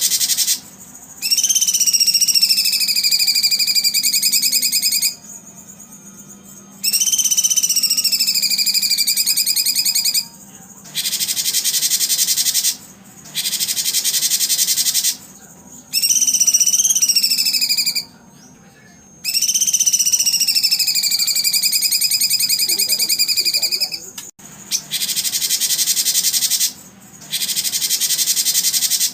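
A loud, fast-pulsing insect buzz that starts and stops every few seconds, with a songbird's long whistled notes laid over it, four times, each sliding down and then holding steady.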